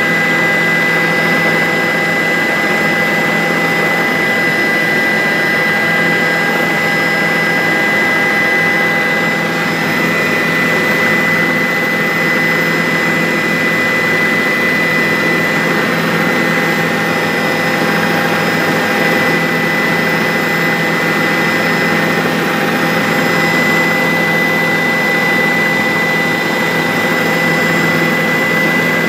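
Bell 407 helicopter in flight, heard from inside the cabin: a steady turbine whine over a dense, even rotor and engine roar that holds unchanged throughout.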